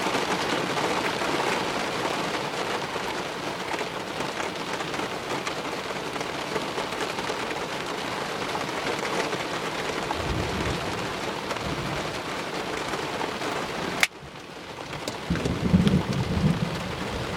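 Heavy rain drumming steadily on a vehicle's roof and windows, heard from inside, with a low rumble of thunder about ten seconds in. Near the end a sharp click comes, the rain noise drops suddenly, and more low rumbling follows.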